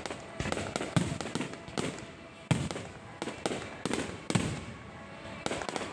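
Low-altitude fireworks going off in a rapid irregular volley, several sharp bangs a second, each with a short tail. The loudest reports come about half a second, one second, two and a half seconds and four and a third seconds in.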